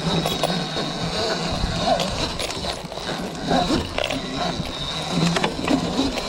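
Kuberg electric minicross bike being ridden on dirt: a steady high whine over rough rolling noise, with scattered knocks and clatter.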